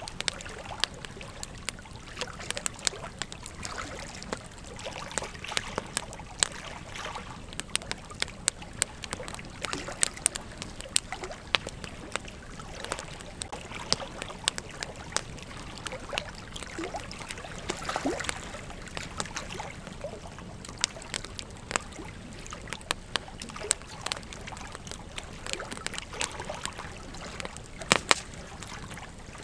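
Campfire crackling: irregular sharp pops and snaps over a steady hiss, with a couple of short whistles about two-thirds of the way in and a burst of louder pops near the end.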